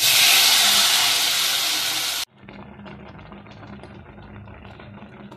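Chopped tomatoes hitting a hot pan of fried small fish and onions, sizzling loudly. The sizzle cuts off suddenly about two seconds in, leaving a much quieter, finely crackling simmer.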